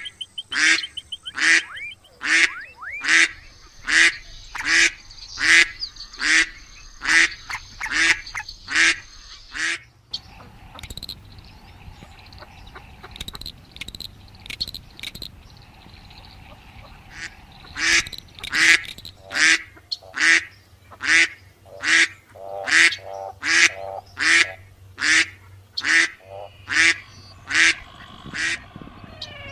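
Duck quacking in long rapid series, about two quacks a second, falling quiet for several seconds in the middle before a second run of quacks.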